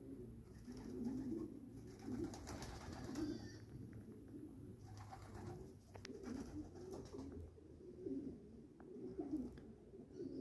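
Racing pigeons cooing, a run of low warbling coos repeated every second or so.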